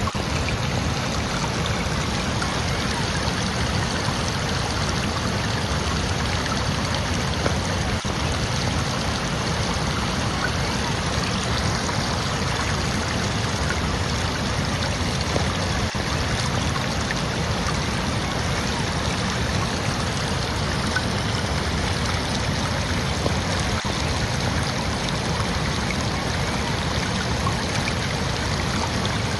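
Flowing water of a stream rushing and trickling steadily, with no change.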